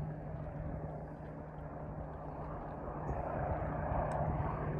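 An airplane's engines running steadily as it approaches, slowly growing louder, with a constant low hum under a rushing noise.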